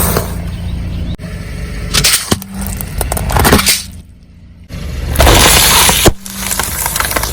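Car tyres rolling over and crushing crunchy objects, with loud crackling and sharp snaps in several stretches over the low hum of the car. There is a short lull about two-thirds of the way through.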